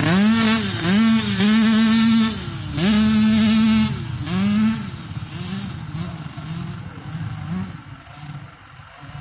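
Dirt bike engine revving hard, its pitch climbing, holding and dropping several times in quick succession, then fading as the bike moves away over the last few seconds.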